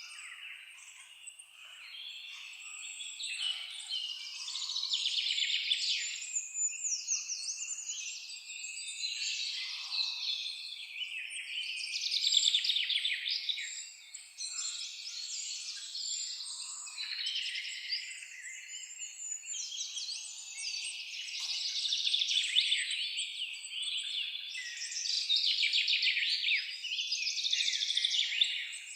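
Several songbirds singing at once in a dense forest chorus: overlapping chirps and fast trills that swell and fade in waves.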